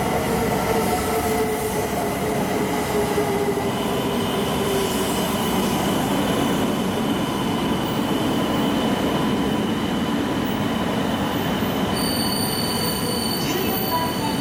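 Shinkansen train moving slowly along a station platform: a steady rumble of wheels on rail under an electric motor whine that drops slightly in pitch over the first few seconds. A high, thin squeal joins near the end.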